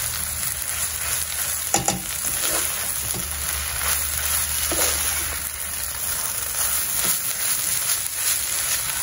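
Flaked milkfish mixed with chopped carrot and Chinese celery sizzling in a pan while a spatula stirs it, with a few short scrapes of the spatula against the pan.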